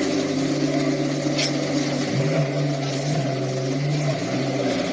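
A car engine running steadily, its pitch stepping up slightly about two seconds in.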